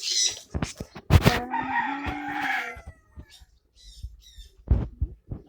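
A rooster crowing once, a call of about a second and a half starting about a second in. A few sharp knocks sound around it, and small birds chirp at the start.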